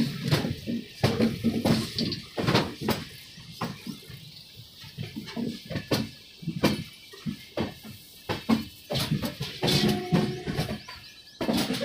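Moving passenger train heard from inside the coach: irregular clattering and knocking of the wheels and coach fittings. A brief faint tone sounds near the end.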